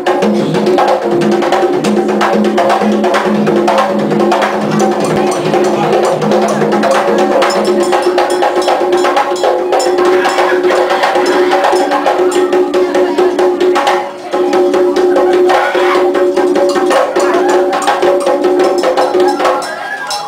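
Percussion music: drums and sharp wood-block-like clicks played in a dense rhythm over steady held tones, with a short drop in level about fourteen seconds in.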